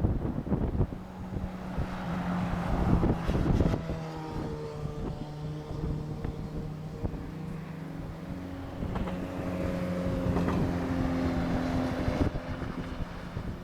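easyJet Airbus airliner's jet engines on approach to land, a steady hum with several held tones, under gusty wind on the microphone.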